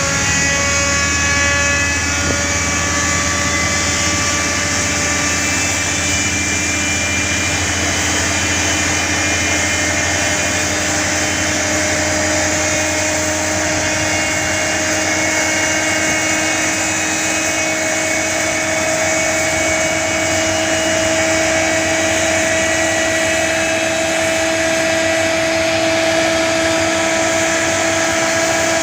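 Boeing 737-900's CFM56-7B turbofan spooling up during engine start: a steady roar with whining tones that rise slowly in pitch, and a low hum that fades out about ten seconds in.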